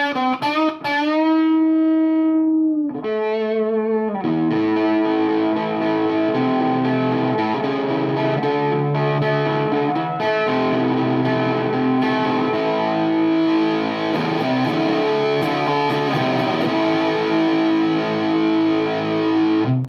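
Electric guitar played through a Sola Sound Mark IV Tone Bender fuzz pedal, with a gnarly, distorted tone. A chord rings out and sustains, a second chord comes in about three seconds in, then a riff of long-held fuzzed notes.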